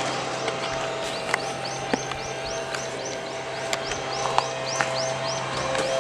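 A bird calling in a fast, even series of short high chirps, about three or four a second, starting about a second in. Behind it is a steady noisy background with a low hum and a few faint clicks.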